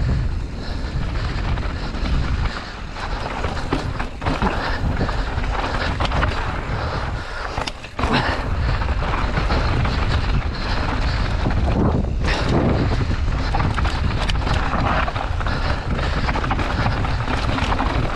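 Enduro mountain bike riding down a rough dirt trail: wind buffeting the microphone, a low rumble of tyres over the ground, and frequent short knocks and rattles from the bike over bumps. It eases off briefly twice, a few seconds in and again about eight seconds in.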